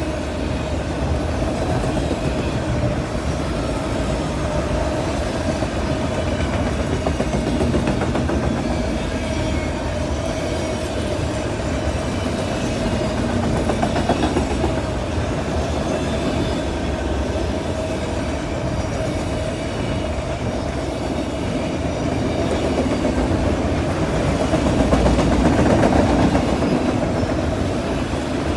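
A freight train of autoracks and double-stack container cars rolling steadily past, a continuous rumble with the clickety-clack of wheels over the rail joints and switch, and a steady ringing tone throughout.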